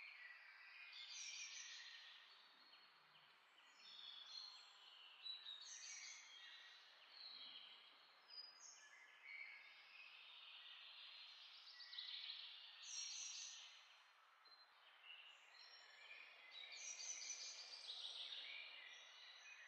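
Near silence with faint birds chirping on and off in clusters over a low hiss.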